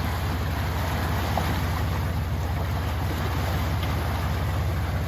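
Off-road vehicle engine running steadily as it fords a deep river crossing, with a constant rush of water.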